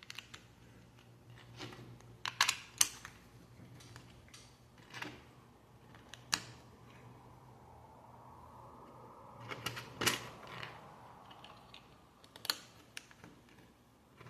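Plastic Lego pieces and their bags being handled: scattered sharp clicks and taps, loudest about two and a half seconds and ten seconds in, with soft rustling in the middle.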